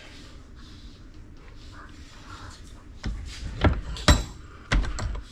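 A few sharp knocks and clatters of hard parts being handled and set down on a workbench, starting about three seconds in after a quiet stretch.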